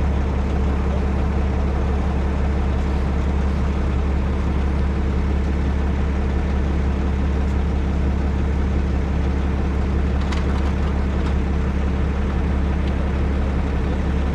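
Heavy rotator tow truck's diesel engine running steadily at a constant speed, a loud, unchanging low drone.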